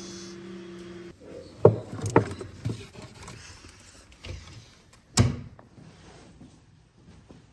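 A steady hum cuts off suddenly about a second in. It is followed by a series of knocks and clatters of objects being handled, with one loud knock about five seconds in.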